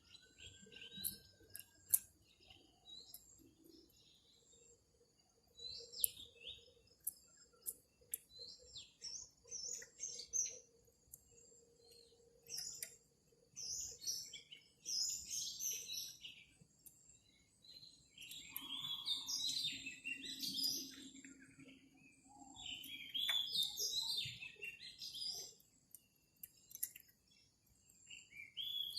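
Small birds chirping and twittering in quick bursts of high notes, growing busier about halfway through.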